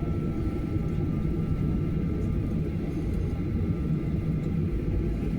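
Steady low rumble of a Boeing 737-900ER's CFM56 jet engines and airflow, with a faint high tone that fades about halfway through.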